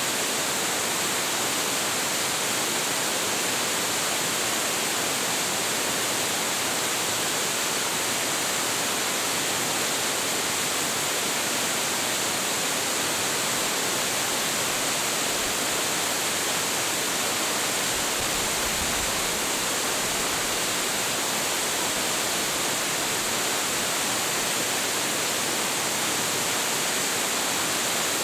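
Hiji Falls, a 25.7 m high waterfall with a heavy flow, pouring steadily: a constant, even rush of falling water with a strong hiss and no breaks.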